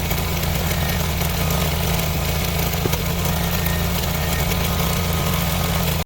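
Engine idling steadily, then cutting off suddenly near the end.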